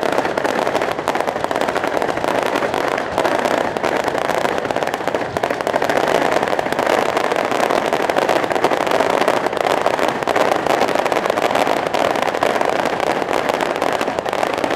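Fireworks crackling in a dense, unbroken stream of rapid pops.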